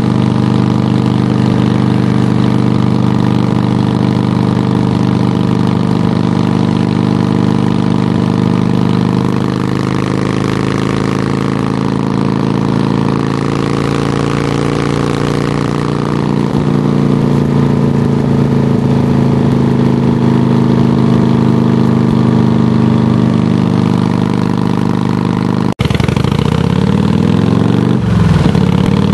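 Harley-Davidson touring motorcycle's V-twin engine running through Samson Silver Bullet mufflers, idling with a steady, loud exhaust. Its speed drifts up and down around the middle. After a sudden short break near the end, the throttle is blipped with rising revs.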